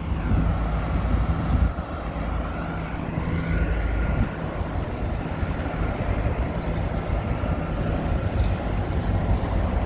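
Caterpillar wheel loader's diesel engine running steadily under work, a low drone with a faint higher whine that comes and goes.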